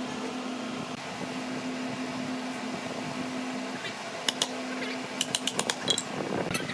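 A small electric motor running with a steady hum and whir. Several sharp taps and clicks come in over the last couple of seconds.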